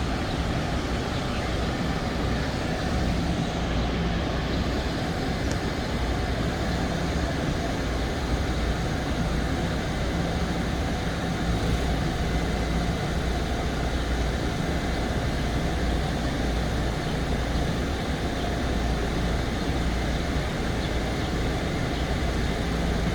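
Steady rumble and hiss of a Bombardier M7 electric train, with a low hum that comes and goes.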